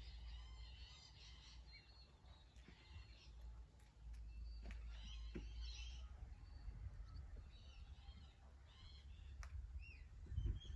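Faint birds calling, many short chirps and whistled notes scattered through, over a low steady rumble that swells near the end.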